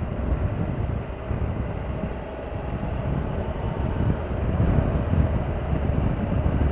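Wind noise on the microphone of a moving motorcycle, with the Triumph Tiger 1200's three-cylinder engine running steadily underneath.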